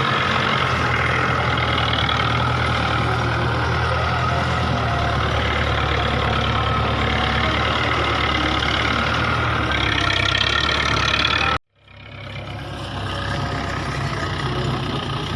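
Belarus 510 tractor's diesel engine running steadily. It cuts out suddenly about eleven and a half seconds in and comes back a moment later.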